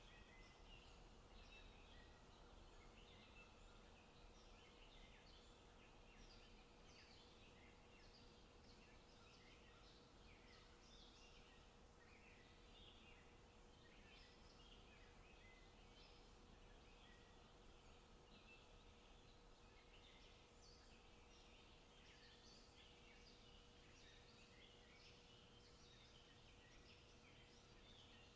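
Faint forest ambience with many small birds chirping and singing, short calls overlapping without pause.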